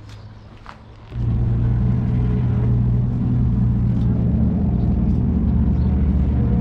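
A muscle car's V8 engine comes in suddenly about a second in and runs loud and steady at an even pitch.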